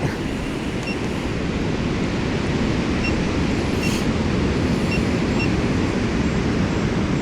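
Steady wind buffeting the microphone, a dense rushing noise heaviest in the low end, with a few faint short high beeps now and then.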